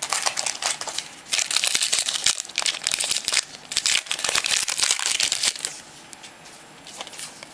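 Foil wrapper of a trading-card pack crinkling and rustling as it is torn open and handled, busy for the first five and a half seconds, then dying down to faint scattered rustles.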